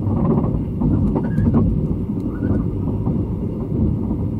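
Running sound inside a sleeper express train coach at speed: a steady low rumble of wheels on rail. A few short squeaks and clicks come about a second in.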